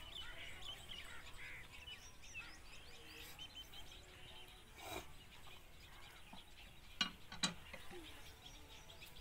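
Faint chirping of small birds, many short calls that sweep in pitch, over a low background rumble, with two sharp clicks about half a second apart near the end.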